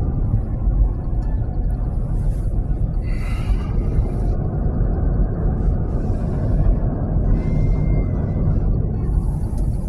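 Steady road and tyre rumble inside the cabin of a Waymo self-driving Jaguar I-Pace electric car on the move, with a few brief, faint hissy swells over it.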